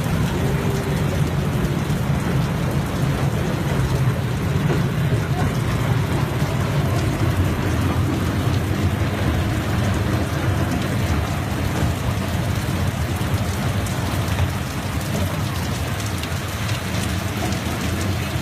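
Heavy rain pouring steadily, with a strong low rumble under the hiss.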